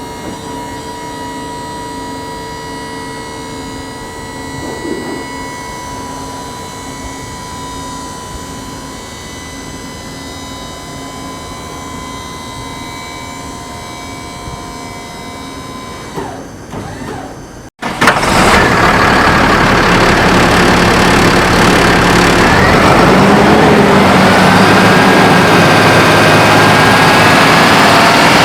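A diesel vacuum truck's engine running with a steady hum, then, after a brief break about two-thirds of the way through, a much louder run of engine and rushing air-blower noise, rising slightly in pitch near the end.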